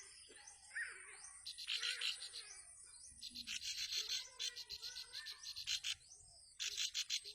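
Ciblek (prinia) bird calling in about four bursts of fast, evenly repeated high notes, with softer chirps between. The calls are taken for the mother bird crying for her young at the nest.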